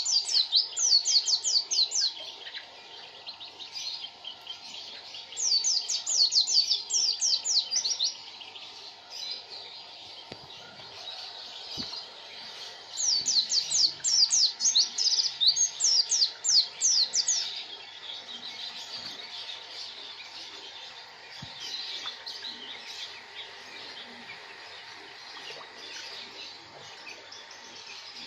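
Pleci (white-eye) singing: three long bouts of rapid, high twittering notes, each note sweeping down in pitch, with softer chirping in between.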